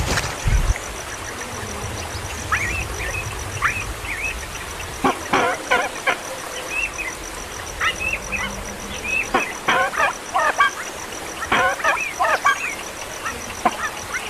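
Baby kingfisher chicks calling: short, sharp chirps that come in quick clusters, several birds at once, typical of chicks begging for food.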